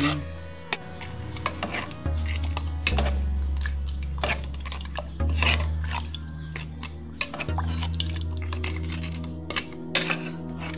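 A metal ladle scraping and clinking against a metal cooking pot while stirring thick rice porridge and pushing it over a block of frozen soup stock. It makes irregular short clinks throughout, over background music with a low, steady bass.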